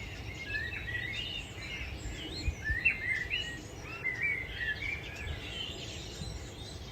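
Blackbird singing a string of short warbled phrases that slide up and down in pitch, over a steady low background rumble.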